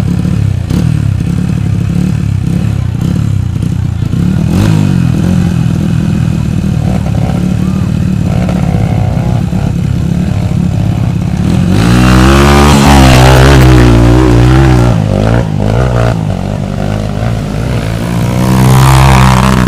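Motorcycle engine revving hard under load on a steep hill climb, its pitch rising and falling as the throttle works. It grows louder about twelve seconds in, and again near the end.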